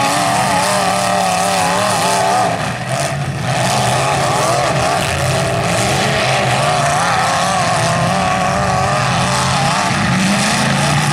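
Engines of several full-size demolition derby cars running hard together, their pitch rising and falling as the drivers rev and back off.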